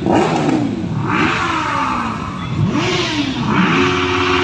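Several motorcycle engines being revved in short blips, their pitch repeatedly rising and falling and overlapping one another.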